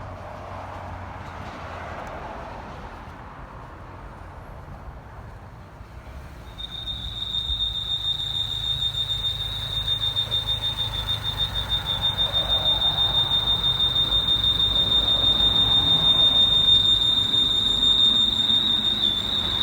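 A steady, high-pitched squeal from under the hood of a 2011 Mini Cooper Clubman, sounding like one of those smoke alarms, starts about six and a half seconds in and holds, slowly growing louder, over the car's running noise. The check engine light is on with it.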